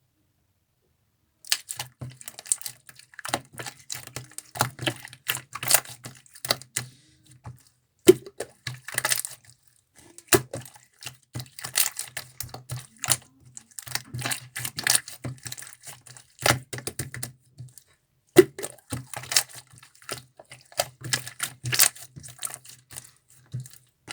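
Slime being squeezed and kneaded by hand, giving rapid trains of clicking and crackling pops in bursts of a few seconds with short pauses between.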